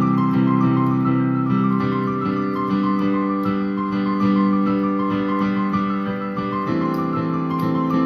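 Instrumental passage of a song played on a piano or electric piano, held chords changing every couple of seconds.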